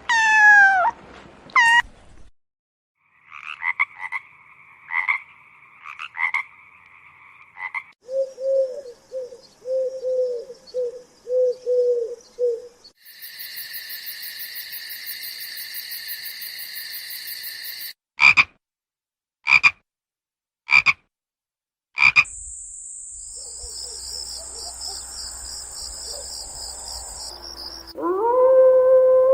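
A string of different animal calls, one after another with short breaks: falling cries at the start, a repeated pulsing croak like a frog's, a steady insect-like buzzing, four short sharp calls, a high buzz, and a rising howl that begins near the end.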